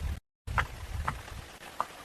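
A few short, sharp knocks over a low rumble; the sound cuts out briefly near the start.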